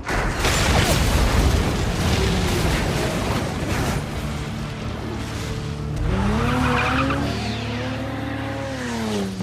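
Action-film car-chase sound mix: car engine and skidding tyres over a deep low rumble, with a film score underneath. From about six seconds in, a stacked tone rises and then falls back.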